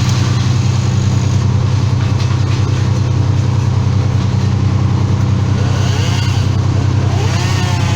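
An engine running steadily at constant speed, with a strong, even low hum.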